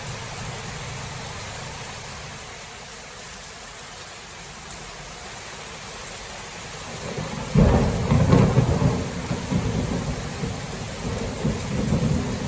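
Steady rain falling, then a sudden loud thunderclap about seven and a half seconds in that rolls on as a deep rumble to the end.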